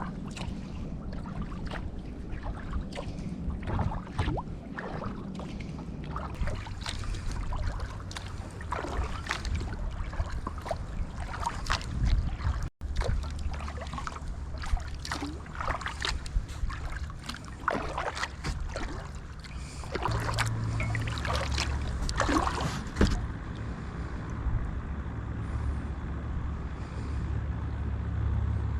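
Kayak paddle strokes, the blades dipping and splashing in the water about once a second over a steady low rumble. The splashing stops near the end, leaving only the rumble.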